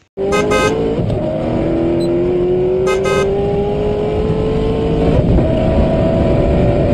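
Car engine sound effect for a cartoon car driving along: a steady engine run whose pitch climbs slowly as it accelerates, starting suddenly just after the opening. A short high double beep sounds near the start and again about three seconds in.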